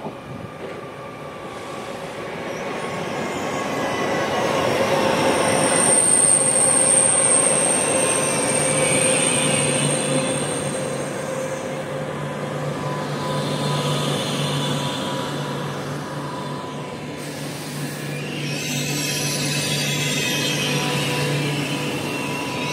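Pendolino electric train pulling into the platform: the rumble of the train builds over the first several seconds, with a high-pitched squeal for about five seconds around the middle. A steady low hum follows.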